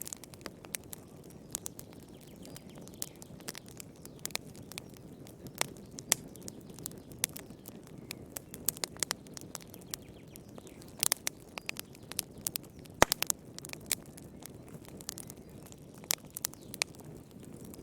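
Wood fire crackling in a fireplace: irregular sharp pops and snaps over a low steady rush of burning, with one louder pop about two-thirds of the way through.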